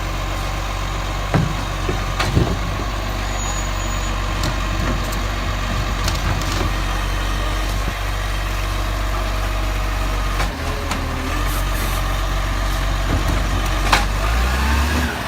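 Garbage truck engine idling steadily, with a couple of sharp knocks about one and two seconds in.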